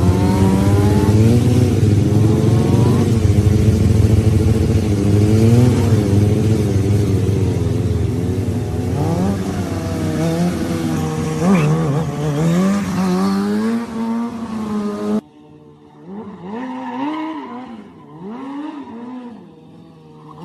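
Motorcycle engine revving, its pitch rising and falling repeatedly as the throttle is worked. About fifteen seconds in the sound cuts off suddenly to a much quieter stretch where an engine still rises and falls in pitch.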